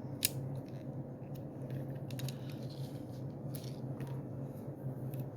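Scattered small plastic clicks and handling noises as parts of a Majorette diecast car and its body kit are fitted together by hand, with one sharper click just after the start, over a steady low hum.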